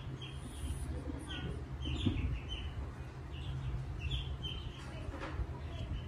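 Small birds chirping in short, irregular high calls over a steady low hum.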